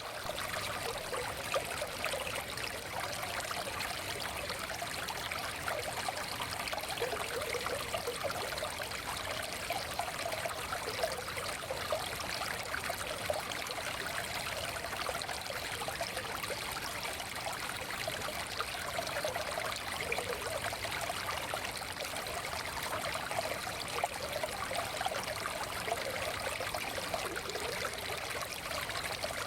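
Forest stream flowing steadily, water trickling and babbling over rocks with a continuous rushing sound.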